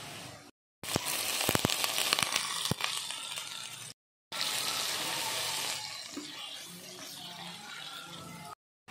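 Squid pieces and garlic frying in hot oil in a pan, a loud sizzling hiss with sharp crackles and pops as they are stirred with a wooden spatula. The sizzle comes in three stretches split by short silences; it is loudest and crackliest in the first and quietens after about six seconds.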